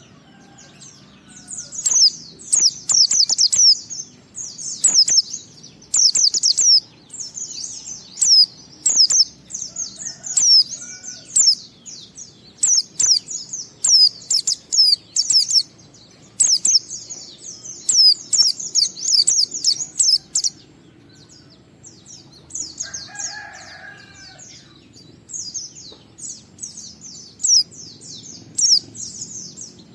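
White-eye (pleci) singing a fast, high-pitched twittering song in phrases about a second long with short pauses between them. Sharp clicks in the first third, and a brief lower call about three-quarters of the way through.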